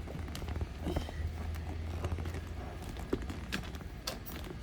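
Scattered light knocks and clicks over a steady low hum.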